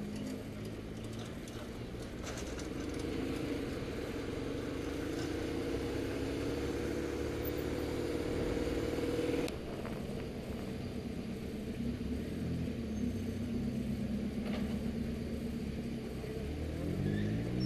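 BMW motorcycle engine running at low road speed. Its sound drops suddenly about halfway through, and the revs rise again near the end as it accelerates.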